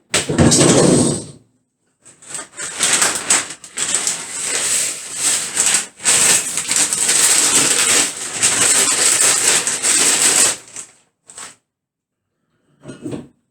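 Dishes and kitchen utensils clattering and rattling as they are loaded into a dishwasher rack, with a busy run of knocks and clinks lasting several seconds.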